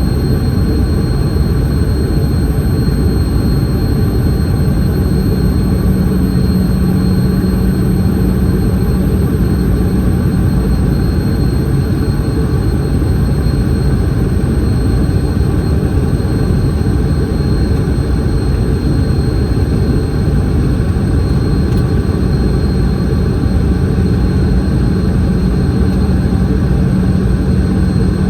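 Cabin noise inside a Boeing 717 in flight, heard from a rear window seat: a steady roar of its Rolls-Royce BR715 turbofan engines and airflow, with a thin constant high whine. A low hum swells in twice.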